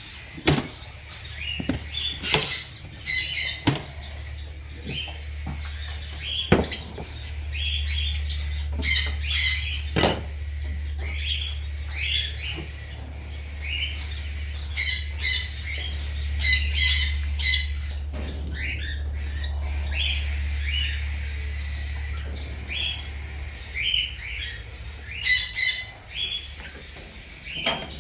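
Small parrots in an aviary calling: repeated harsh squawks and chirps, with sharp clicks among them. A low steady rumble runs underneath through most of the middle and fades near the end.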